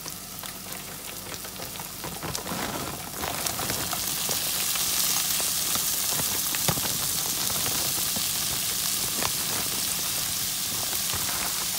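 Chicken strips sizzling in hot olive oil in a frying pan. About three seconds in, frozen peppers and onions are poured in and the sizzle jumps louder and hissier, with scattered ticks of pieces landing.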